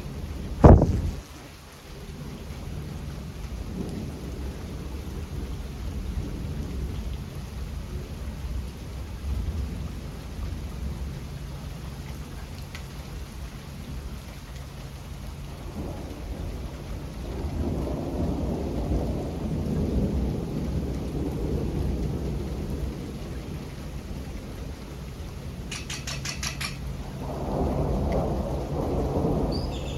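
Steady rain with thunder: a sharp, very loud thunderclap about a second in, then low rolling rumbles that swell twice in the second half.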